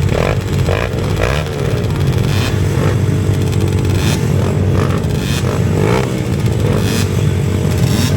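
Dirt-bike engines running and revving continuously, with brief sharp clatters mixed in.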